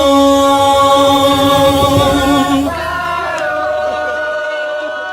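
Male vocal group holding a long harmonised closing note with the vocals brought forward. The chord moves to a new one about two and a half seconds in, then fades away.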